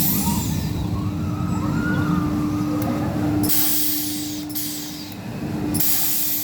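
Waterspin fairground ride's drive motor running with a steady hum at one pitch, with a low rumble that drops away about halfway through. In the second half come three short bursts of hissing.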